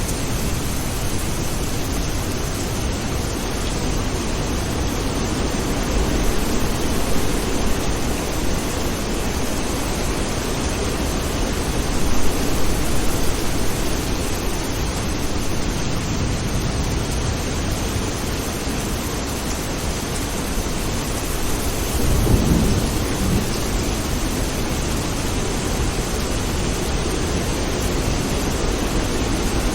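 Steady rain falling, with thunder rumbling several times: a swell about twelve seconds in and another low rumble about twenty-two seconds in.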